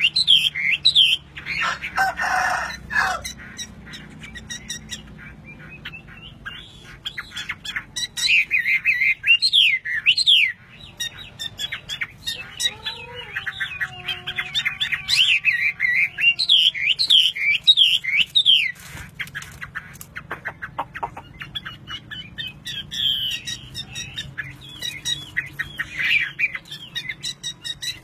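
Songbird singing a fast, varied run of chirps and up-and-down whistles, with pauses between phrases. A lower, drawn-out gliding call comes in near the middle.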